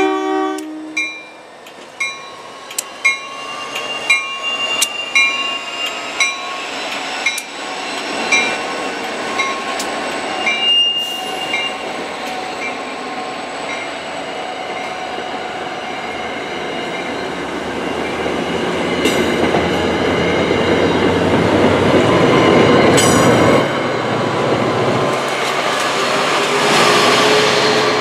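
NJ Transit commuter train moving slowly through a grade crossing. A short horn toot comes right at the start, with the crossing bell dinging. The wheels then clack over the rail joints about once a second and squeal briefly, and the rolling noise of the passing coaches and the trailing locomotive grows louder toward the end.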